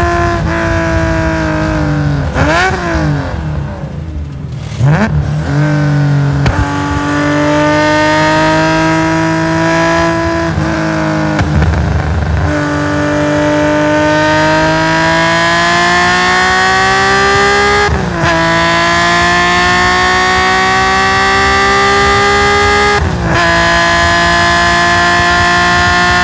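Nissan S20 straight-six of a Skyline GT-R race car at racing speed. In the first six seconds the revs drop, with sharp throttle blips on the downshifts. It then pulls up through the revs at full throttle, with two quick upshifts on its sequential gearbox, about two-thirds of the way in and again five seconds later.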